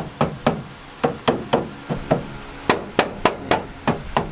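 Hammer blows on the steel body panel of a car's door post, about a dozen sharp, ringing strikes at an uneven pace of roughly three a second, beating the metal back into shape.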